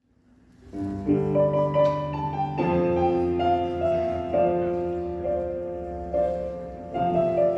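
Piano introduction to a Polish pop ballad: slow, held chords that fade in within the first second and change every second or two.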